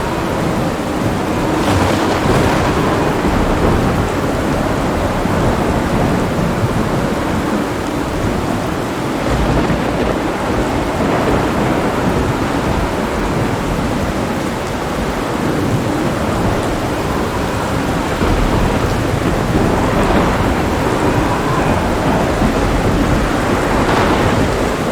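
Thunderstorm: steady heavy rain with continuous low rolling thunder.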